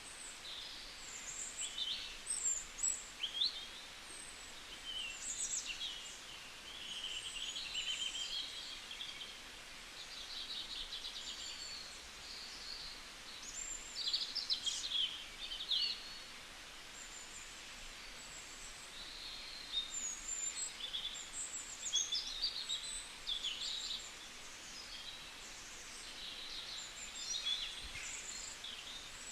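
Several small birds chirping and trilling in short, high calls that come and go in bursts over a steady background hiss.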